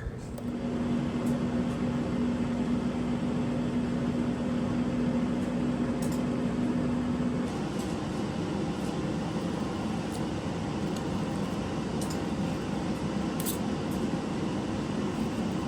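Hot tub jets and pump running: a steady rush of water and air with a low hum that cuts out about seven seconds in, and a few faint ticks.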